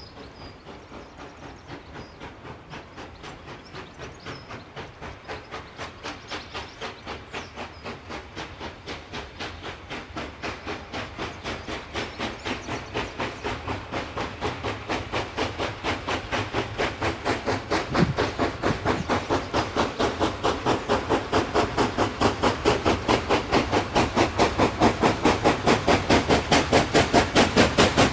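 USA S160 2-8-0 steam locomotive working hard, its chuffing exhaust beats coming evenly and growing steadily louder as it approaches.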